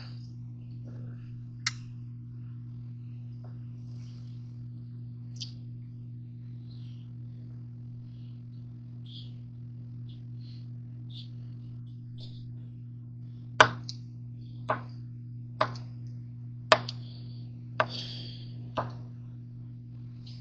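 A knife chopping through hotdogs onto a cutting board: six sharp knocks about a second apart in the second half, over a steady low hum.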